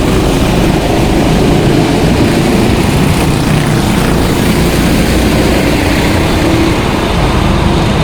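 Several go-kart engines running together, a steady mix of small engines whose pitches shift up and down.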